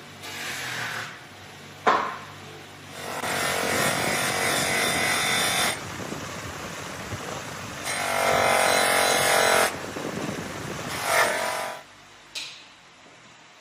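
A power tool running in several bursts of a few seconds each, with a sharp click about two seconds in.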